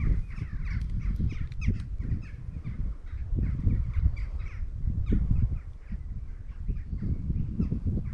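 Wild birds calling and singing, a rapid run of short, quick falling high notes, over a constant uneven low rumble.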